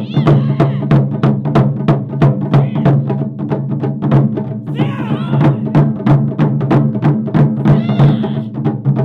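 Japanese taiko drum ensemble playing a fast, dense rhythm of strikes, with short rising-and-falling calls cutting in about every two and a half seconds.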